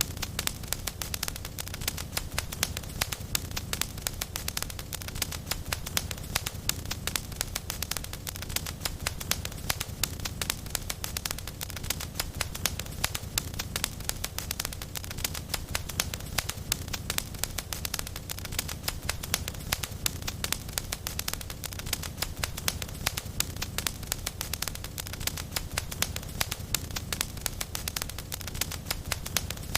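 Wood fire burning in a fireplace, with a constant low rumble and dense, sharp crackles and pops throughout.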